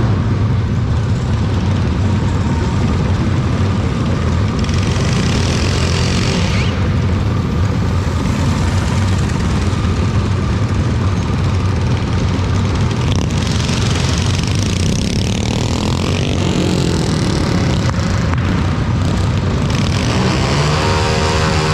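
Steady, loud engine and vehicle noise, a continuous low rumble without clear revving.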